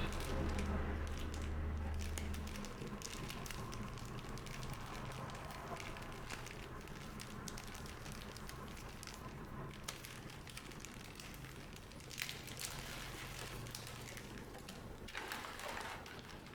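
Plastic or foil packaging crinkling and crackling as it is handled, with many small irregular clicks. A low hum runs under it for the first couple of seconds.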